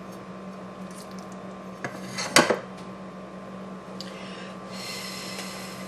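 Cutlery against a dish: a few clinks, the loudest a sharp clink about halfway through, then a short light scrape of the utensil on the dish.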